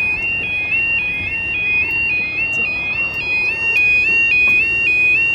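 Railway level crossing warning alarm sounding, a two-tone yodel alternating steadily between a high and a slightly lower note, each note held about a third of a second: it signals that the barriers are down and a train is coming.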